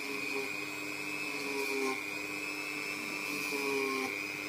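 Dremel rotary tool running at its lowest speed with a steady high whine, held against a model locomotive's metal pickup wheel to grind off built-up grime. Its pitch sags briefly twice as it takes load.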